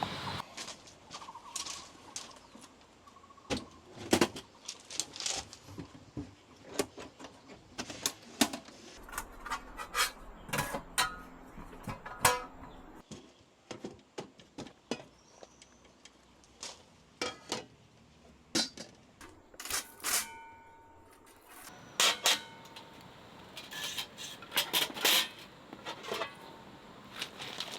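Irregular clinks, clicks and knocks of camping gear being handled, some sharp and loud, with no steady rhythm.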